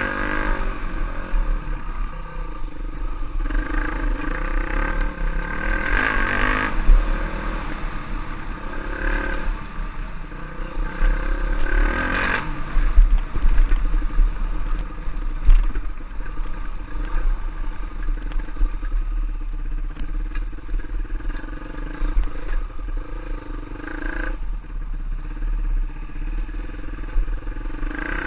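Enduro dirt bike engine running under way, the revs rising and falling in swells, with clatter from the bike over rough trail and a heavy low rumble underneath.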